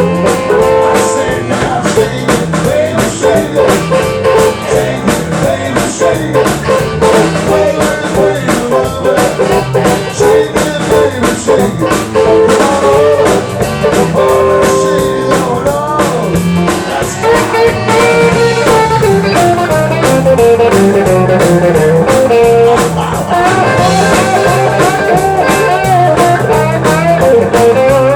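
Live blues band playing, with guitar over a drum kit and bass.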